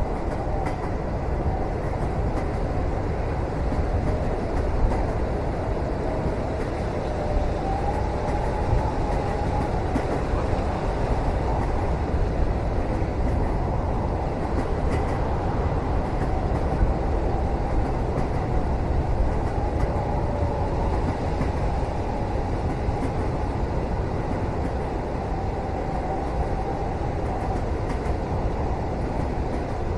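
Steady rumble of a moving train heard from inside a passenger cabin, with a faint wavering whine over it and a few light knocks.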